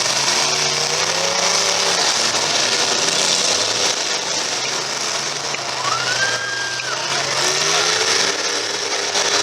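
Demolition derby cars' engines running and revving, their pitch slowly rising and falling over a dense wash of noise, with a brief high squeal about six seconds in.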